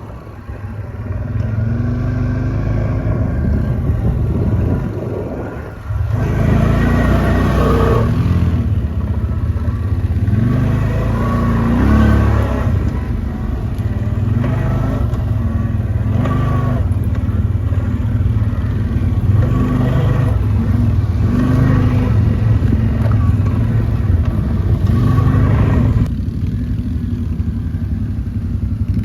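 ATV engine running under load, its pitch rising and falling as the throttle is opened and eased, with a short dip about six seconds in.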